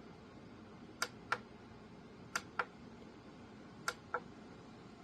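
Plastic push button on a small portable air cooler being pressed repeatedly to step through its LED lighting modes: three sharp double clicks, press and release, about every second and a half.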